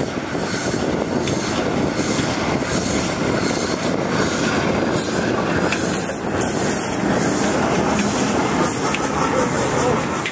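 Railway train rolling past: a steady, loud rolling noise of steel wheels on the rails with many sharp clicks scattered through it.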